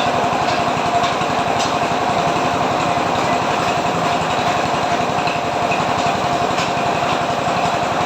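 An engine running steadily at an even speed, with a steady whine and a few faint clicks over it.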